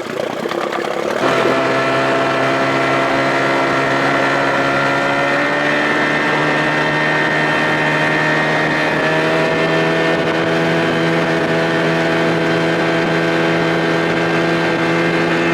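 2000 Johnson 25 hp two-stroke outboard motor opening up about a second in, then running hard at high throttle with a steady tone whose pitch climbs a little twice as the boat gets up to speed.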